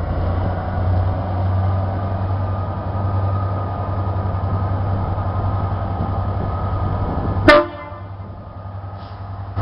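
Class 67 diesel locomotive running through with a single-tone horn blast, over a steady low engine rumble. The sound cuts off abruptly with a click near the end.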